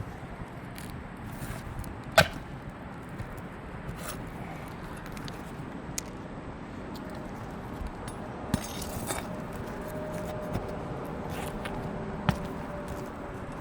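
Asphalt roof shingles and nails being pried and lifted: scattered sharp clicks and scrapes, with a loud knock about two seconds in and another near the end. A faint steady hum joins about halfway through.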